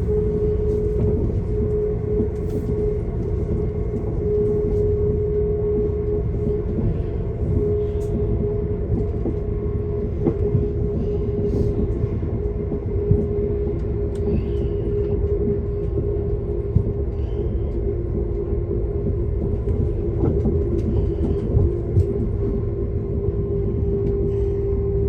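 Diesel passenger train running at speed: a steady low rumble of wheels on track with a constant humming tone and scattered light clicks.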